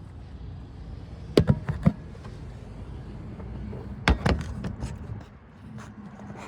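Several sharp clicks and knocks in two short clusters, one about a second and a half in and one about four seconds in, over a low steady rumble.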